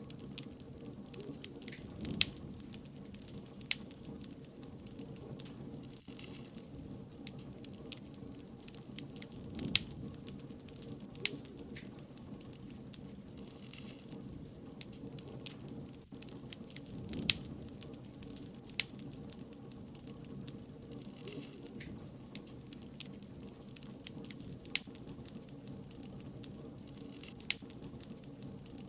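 Bonfire burning: a steady low rush of flame with irregular sharp crackles and pops, a handful of them much louder than the rest.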